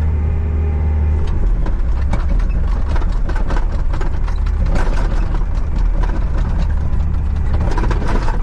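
Skid steer engine running steadily while the machine drives, with frequent rattling and clanking knocks starting about a second in.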